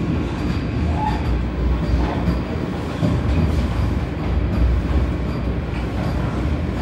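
Vande Bharat Express train running on the track: a steady low rumble of wheels and coaches.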